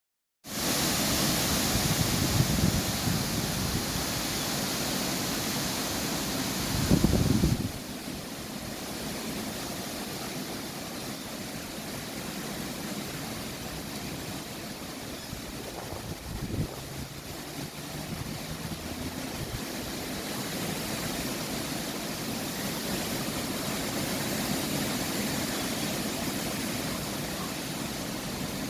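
Strong wind blowing, loudest in the first seven seconds or so with gusts rumbling low, then easing to a steadier rush.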